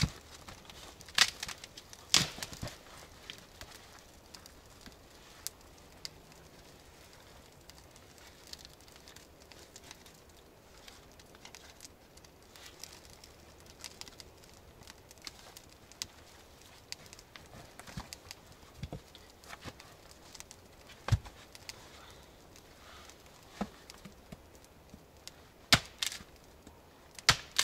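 Dry wood snapping and cracking while a campfire is being made: a few sharp, loud cracks spread out, a pair near the start, one midway and a pair near the end, with faint small ticks between.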